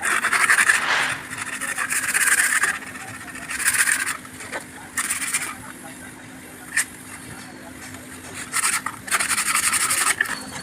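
Repeated hand scraping or rubbing strokes on a hard surface, each lasting about half a second to a second and a half, with pauses between them, over a faint steady hum; a sharp click comes once in a pause.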